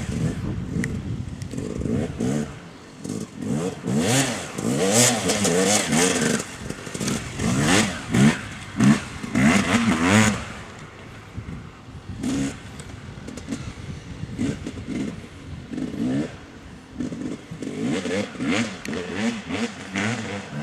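Yamaha YZ250 two-stroke motocross bike being ridden, its engine revving up and dropping back again and again. It is loudest in the first half, fainter through the middle, and builds again near the end.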